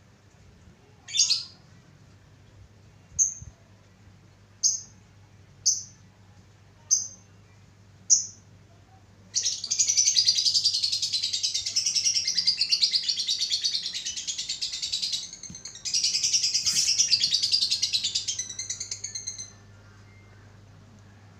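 Lovebird calling: six sharp single chirps about a second or so apart, then a long rapid chattering trill of about six seconds, a brief break, and a second trill of about three and a half seconds.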